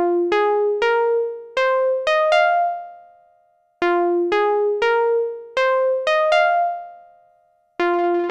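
KORG minilogue xd synthesizer playing a plucky, bell-like phrase of six notes stepping upward in pitch, played twice, each time fading out. Near the end a denser wash of many overlapping, repeating notes comes in.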